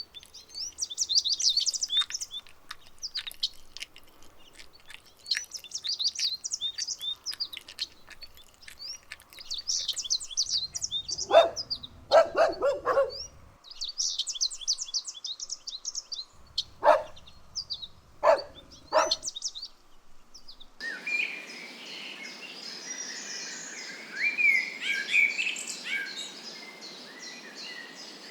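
Small birds chirping in quick repeated phrases, with a few short bursts of dog barking about eleven seconds in and again around seventeen to nineteen seconds. After about twenty-one seconds a steady background hiss comes in under the chirping.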